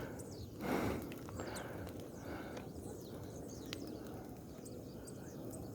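Bonfire of dry branches and leaves crackling, with scattered sharp pops over a steady hiss, and a brief rustle just under a second in. Faint short bird chirps sound high above it.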